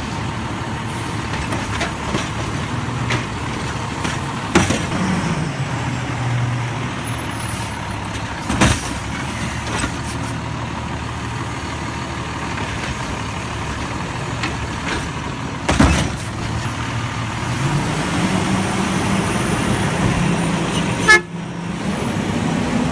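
Garbage truck engine running, its pitch rising and falling as it revs and rising again near the end, with four sharp knocks spaced through it.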